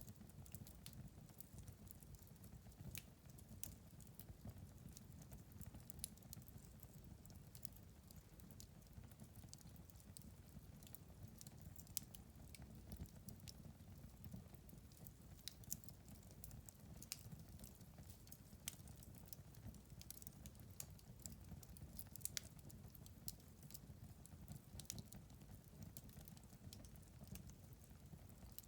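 Wood fire in a fireplace, crackling and popping irregularly over a soft, steady low rumble of the flames.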